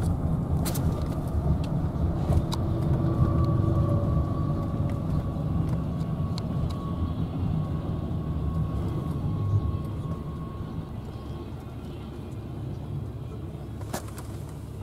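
Low steady rumble of a double-stack container freight train rolling across a grade crossing, heard from inside a car, with a faint thin steady tone over it through the middle. The rumble eases after about ten seconds.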